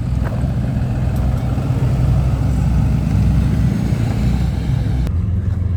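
A motor vehicle's engine running with a steady low rumble; the sound changes abruptly about five seconds in.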